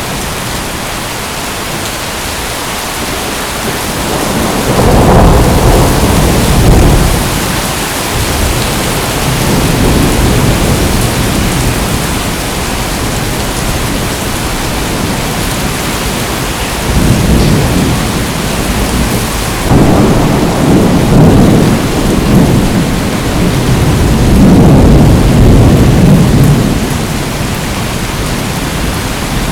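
Steady heavy rain with rolls of thunder: one about five seconds in, then several more overlapping rumbles through the second half.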